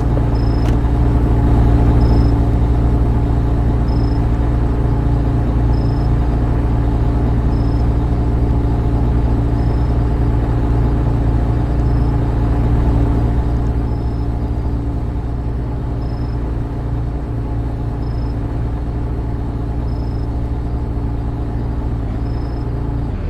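Car engine running at a steady pitch, easing slightly quieter over the stretch, with a faint short high beep repeating about every two seconds.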